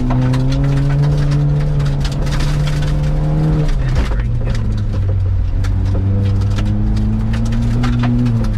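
Ford Fiesta ST's engine heard from inside the cabin, revs climbing steadily, dropping suddenly a little under four seconds in, then pulling again and falling off near the end. Gravel ticks and clicks against the car's underside throughout.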